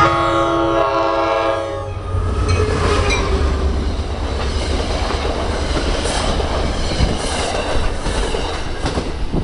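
An NJ Transit GP40PH-2-series diesel locomotive sounds its multi-tone horn in one blast that ends about two seconds in. The train then passes close by, the locomotive rumbling past and the passenger cars rolling on with the rushing and clicking of their wheels over the rail joints.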